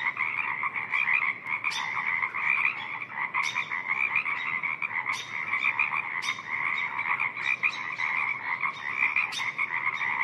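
A dense chorus of frogs calling in a spring wetland, a steady mass of overlapping croaks with sharper, louder individual calls standing out every second or two.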